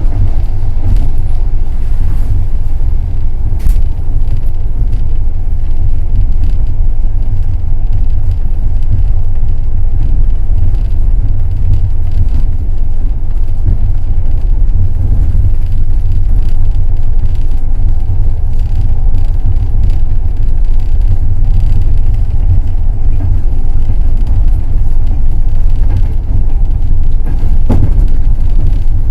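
Passenger train running along the line: a loud, steady low rumble of the wheels on the rails, with a few faint knocks.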